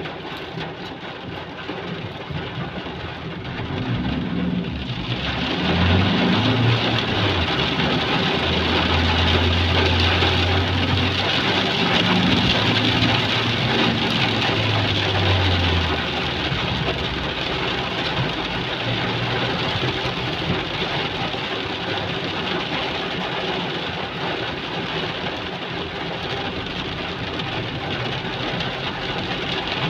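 Heavy rain falling steadily, with a motor vehicle's engine running low from about four seconds in, loudest until about sixteen seconds in, then fading back under the rain.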